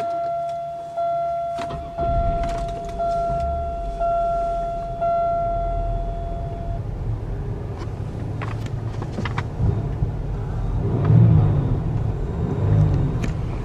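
A 2003 Buick Park Avenue's 3.8-litre V6 (the GM 3800) is started and settles into a steady idle. A dashboard warning chime repeats about once a second for the first several seconds, and a few short clicks sound over the idle.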